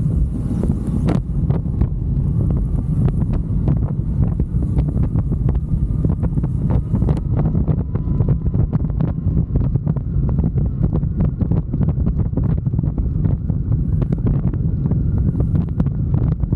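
Loud wind buffeting the microphone of a moving motorcycle: a steady low rumble with constant crackling gusts, the engine faint beneath it.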